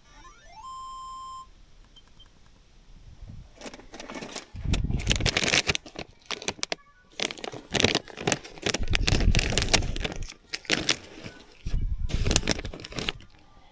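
A short rising electronic tone that holds steady for under a second, then a long stretch of loud rustling and clattering as things are handled, in bursts with brief pauses.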